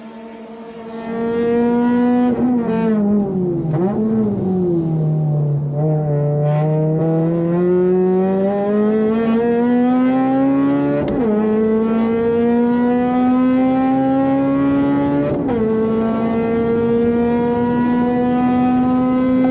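Honda Civic FD2's four-cylinder engine heard from inside the car at racing speed. Its revs fall with quick throttle blips a few seconds in, as on downshifts under braking. It then climbs steadily through the gears, with the pitch dropping at each of two upshifts, about eleven and fifteen seconds in.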